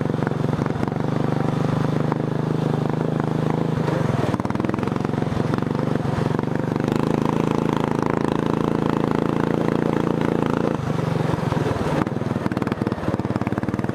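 Racing lawn tractor's engine running steadily under load as it is driven, with an unexplained clicking that the rider is unsure about. The engine note drops briefly about eleven seconds in, then picks up again.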